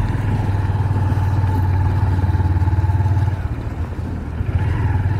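Motorcycle engine running steadily. It drops back briefly a little past halfway through, then picks up again.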